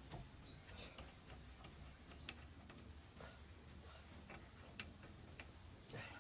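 Faint, irregular sharp clicks, about ten of them, from lug nuts and a wheel wrench as the nuts are snugged down by hand on a newly fitted wheel.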